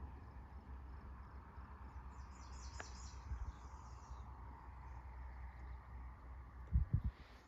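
Evening outdoor ambience: insects calling, with a bird giving a quick series of high chirps about two to four seconds in, over a steady low rumble. Two dull thumps come near the end.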